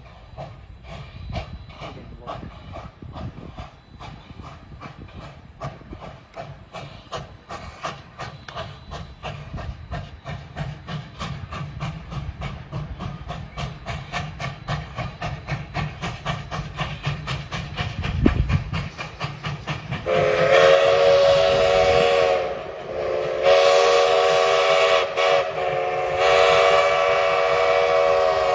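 Steam locomotive's exhaust chuffing in an even beat that gets faster and louder. About two-thirds of the way in, its steam whistle sounds several notes at once, blown as a long blast and then two more blasts.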